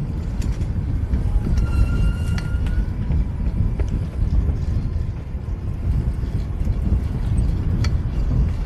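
Wind rushing over the microphone and road noise from a fixed-gear bike ride, a steady low rumble throughout. About two seconds in, a high steady tone sounds for about a second, and a sharp click comes near the end.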